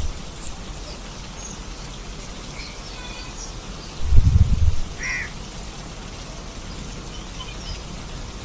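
Steady rain falling, with a few short bird calls near the middle and a brief low rumble about four seconds in.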